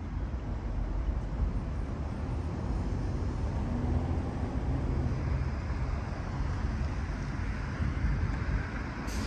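Road traffic on a city street: a steady low rumble of passing vehicles, with a sharp click near the end.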